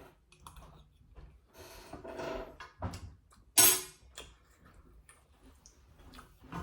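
Small clicks, taps and rustles of food and containers being handled during a meal, with one short, louder burst about three and a half seconds in.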